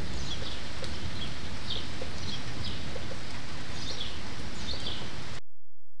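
Outdoor ambience on a VHS camcorder soundtrack: a steady hiss with short high bird chirps every half second to a second. The sound cuts off abruptly about five and a half seconds in as the recording ends.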